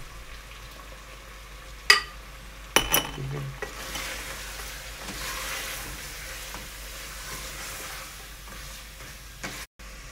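Browned mutton and freshly added spices sizzling in oil in an aluminium pressure cooker pot as they are stirred, the masala frying in the fat the meat has released. About two and three seconds in, a spoon knocks sharply on the pot twice.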